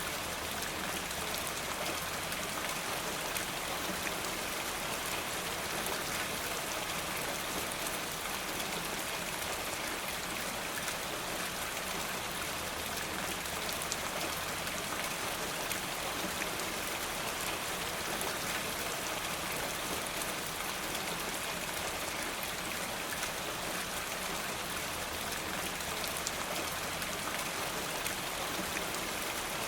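Steady rain falling, an even hiss with scattered faint clicks of a wood fire crackling.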